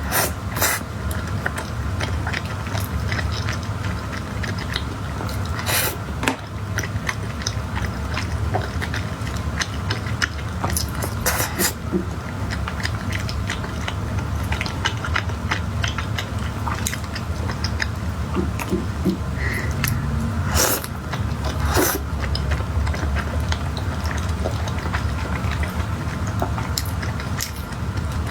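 Close-miked chewing and biting of spicy stir-fried rice cakes (tteokbokki): a continuous run of small mouth clicks and smacks, with a few louder ones scattered through, over a low steady hum.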